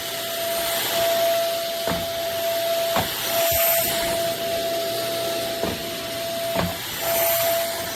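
Corded stick vacuum cleaner's motor running, a steady whine over an airy hiss, with about five sharp knocks as the vacuum is handled or bumped.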